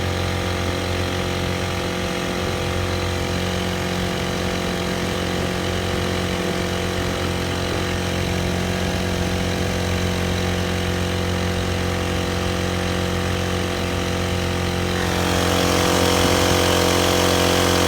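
Small 35cc Honda four-stroke engine driving a kayak, running steadily at a constant pitch; about fifteen seconds in it gets louder and brighter.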